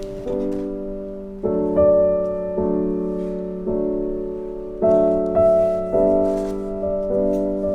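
Background piano music: slow, soft chords struck about once a second, each note left to ring and fade.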